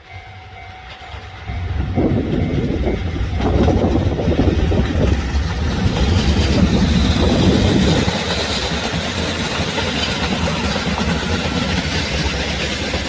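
A train running along the rails. A steady hum for the first two seconds gives way to louder running noise, which peaks a few seconds in and then settles to a steady level.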